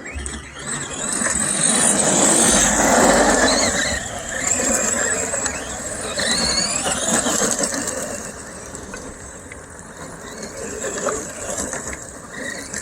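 Brushed-motor RC monster trucks driving, their electric motors and geared drivetrains giving a high whine that rises in pitch in short glides as they accelerate, loudest a few seconds in.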